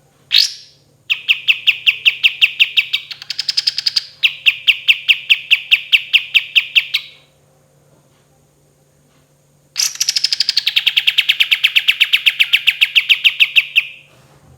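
Kapas tembak songbird singing: a short sharp note, then a long rapid trill of about seven clear notes a second that rises in pitch midway, a pause of over two seconds, and a second long trill that starts high and settles lower.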